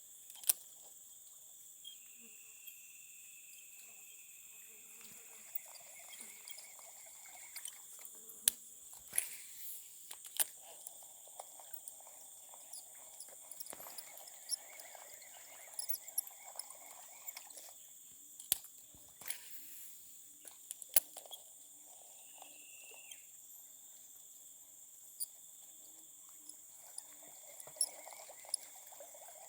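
Outdoor insect chorus: insects chirping in steady high tones, with a faint low pulsing call, likely frogs, in the second half and scattered sharp clicks and taps.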